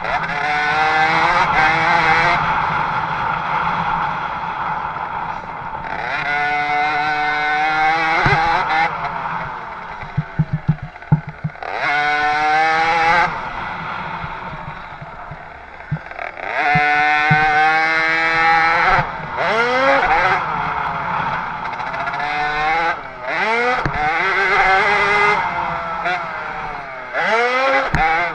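Small 50cc two-stroke motocross bike engines revving hard, their pitch repeatedly climbing and then dropping as the throttle opens and closes. A few sharp clicks or knocks come about ten seconds in.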